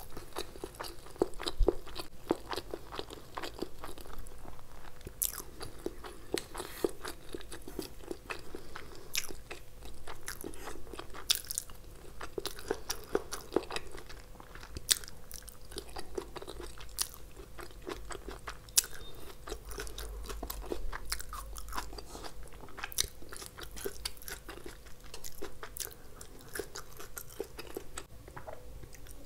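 Close-miked chewing and mouth sounds of someone eating chow mein noodles and fried food, with many sharp crisp clicks and crunches throughout. A faint steady hum runs underneath.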